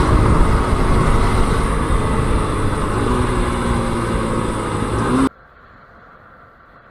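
Motorcycle engine and road and wind noise while riding. About five seconds in it cuts off abruptly, leaving only a much quieter low hum.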